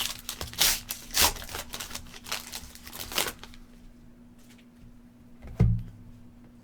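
Foil trading-card pack being torn open and its wrapper crinkled, a quick run of sharp rustles for about the first three seconds, then quieter handling of the cards. A single dull thump comes near the end.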